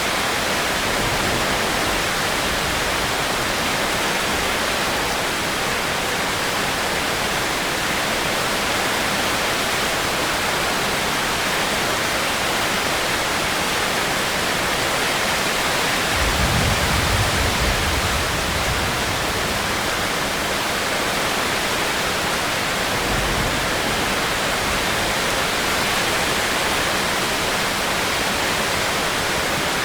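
Steady heavy rain, an even hiss, with a low rumble for a few seconds past the middle and again briefly a little later.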